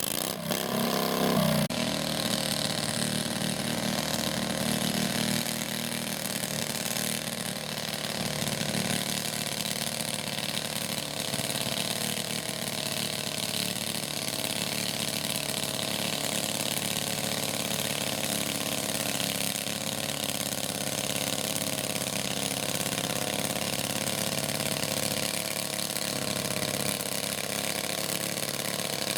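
Small garden tractor engine running steadily, briefly louder about a second in.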